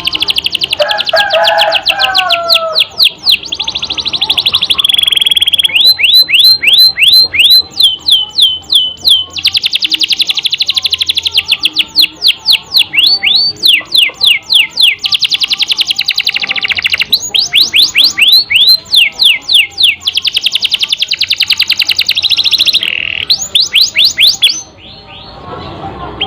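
Domestic canary singing loudly in a fast, rolling song. The song is runs of rapid repeated downward-sweeping notes, several to a second, changing from one trill to the next, with a couple of short held whistled notes between them.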